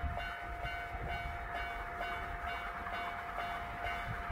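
Electric train running: a steady low rumble with a constant whine held on one pitch above it.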